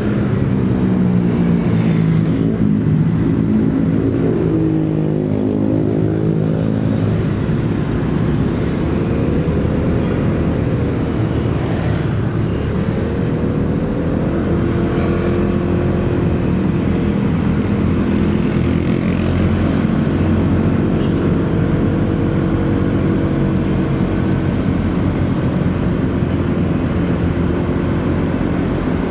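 Motorcycle engine running on the move, its pitch slowly rising and falling as it speeds up and eases off, over a steady low rumble of road and traffic noise.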